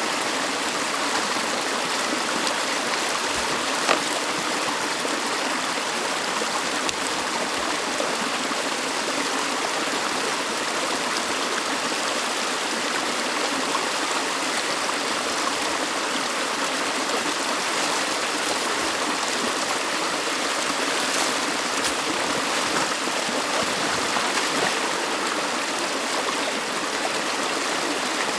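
Stream water rushing steadily, with a single short knock about four seconds in.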